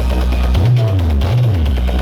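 Loud music played through a large sound horeg system, dominated by a heavy, deep bass line that slides between notes, with drums and other instruments fainter above.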